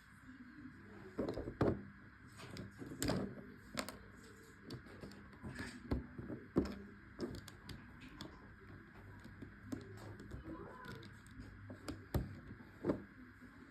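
Irregular clicks and knocks of plastic Lego pieces being handled, over a steady low hum.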